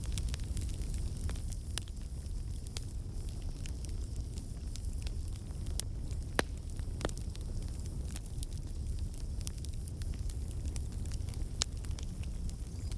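Wood fire burning in a fireplace: a steady low rumble of flames with frequent sharp crackles and pops at irregular intervals, one louder pop about halfway through.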